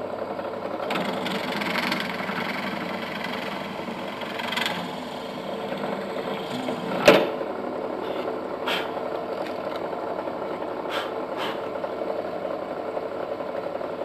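Bench pillar drill running steadily and drilling a screw hole through a countersunk hole in a shelf piece. A sharp click a little after halfway, and a few lighter ticks after it.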